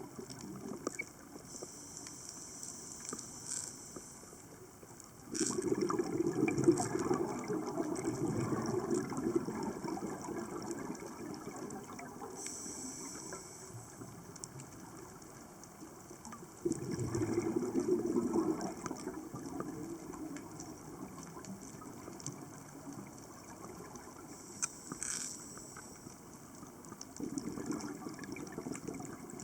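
Water noise that swells up three times, each surge lasting several seconds, with faint trickling and small clicks in between.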